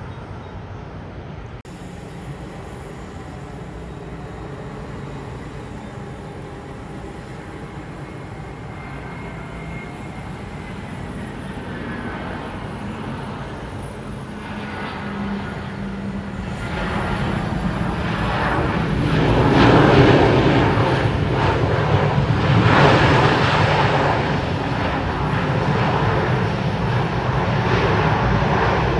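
Airbus A320 jet airliner passing, its engine roar building steadily and peaking about two-thirds of the way through, then staying loud.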